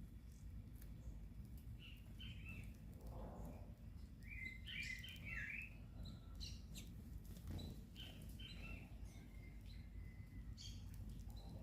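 Small birds chirping at a feeder: scattered short chirps, with clusters of quick notes about two, five and eight seconds in, over a faint low background rumble.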